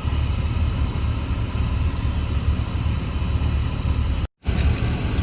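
Steady low rumble of a car idling, heard from inside the cabin. It cuts out completely for a moment about four seconds in.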